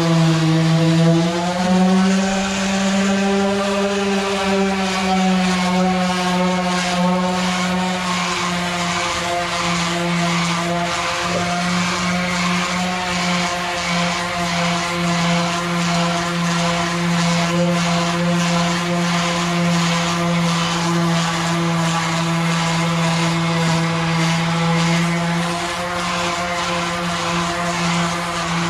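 Power sander running steadily against the aluminum of a truck's fuel tank, a loud hum whose pitch dips and recovers in the first couple of seconds as it is pressed on, with a faint scratchy texture over it later.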